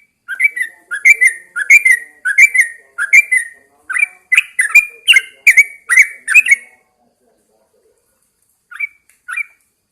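Yellow-vented bulbul singing: a run of about a dozen short, loud notes, roughly two a second, for some six seconds, then a pause and two more notes near the end.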